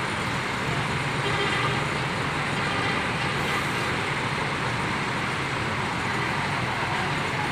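Diesel bus engine idling steadily, with traffic noise from other vehicles mixed in.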